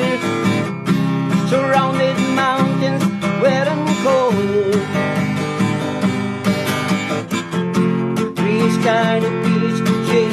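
Acoustic guitar strumming chords in an instrumental passage of a song, with a wavering melody line gliding above it.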